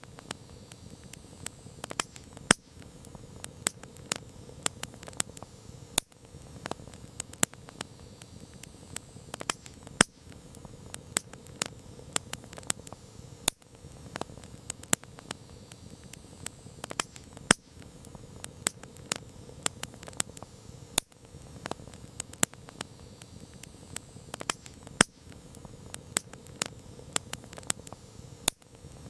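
Campfire crackling: irregular sharp pops and snaps of burning wood, a few much louder than the rest, over a soft steady hiss of the flames.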